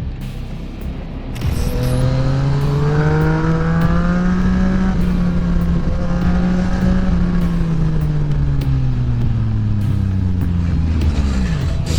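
A motor vehicle engine that climbs in pitch over a couple of seconds, holds, then slowly falls away, its pitch bending sharply down near the end.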